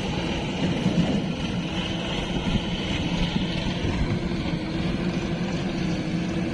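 Diesel engine of a farm vehicle running steadily at an even speed.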